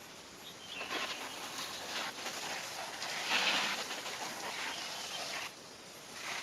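Garden hose spraying water over a car's body to rinse it before washing. The spray starts about a second in, is loudest about halfway through, and stops shortly before the end.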